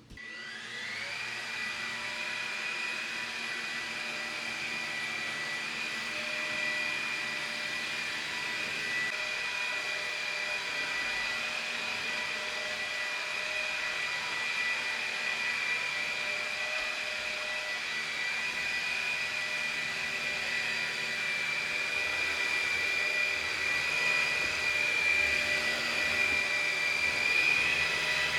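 A small electric motor switches on, winds up to speed within about a second and then runs steadily with a high whine, growing a little louder near the end.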